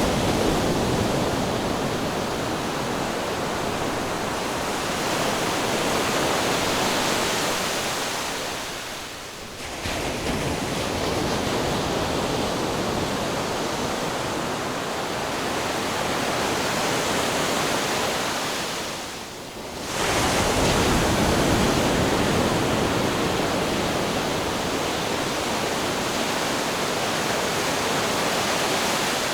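Ocean waves, a continuous rush of surf. The rush dips briefly twice, about ten seconds apart, each time coming straight back up.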